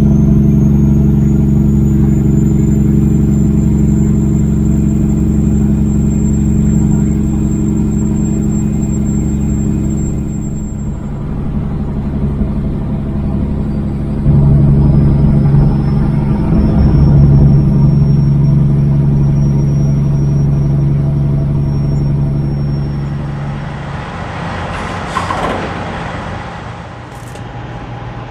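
Kenworth W900 semi truck's diesel engine running steadily on the road. It eases off about ten seconds in, comes back up abruptly about fourteen seconds in, and dies down near the end as the truck slows.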